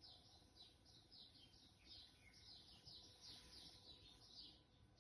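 Faint, quick high chirps of a small bird, repeating about three or four times a second over a low room hum.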